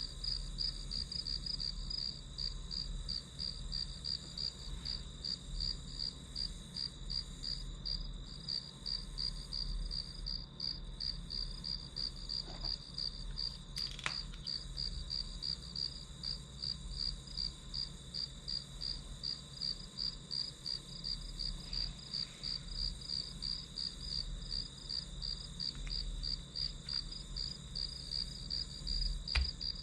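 Crickets chirping in a steady, even pulsing rhythm that keeps on without a break.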